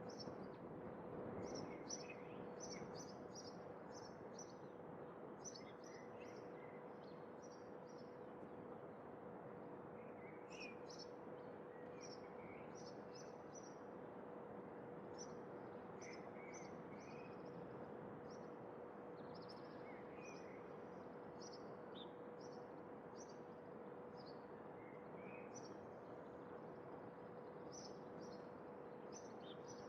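Faint outdoor ambience of small birds chirping, many short high calls repeating throughout, with a few lower chirps, over a soft steady hiss and a low steady hum.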